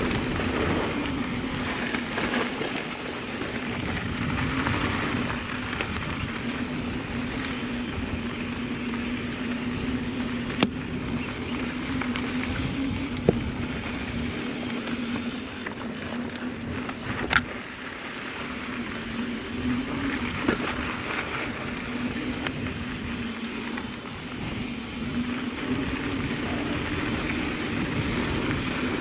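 Mountain bike riding down a dirt trail: steady rushing tyre and wind noise with a constant hum underneath, and a few sharp knocks from the bike over bumps.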